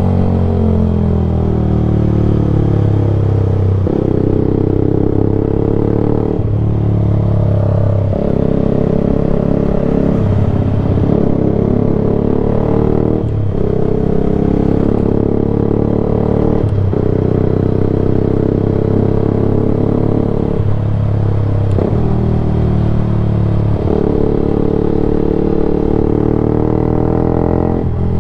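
Yamaha YZF-R motorcycle engine, running loud through an unbaffled Black Widow exhaust can, pulling through the gears. Each stretch climbs in pitch, then drops sharply at a shift, every few seconds throughout.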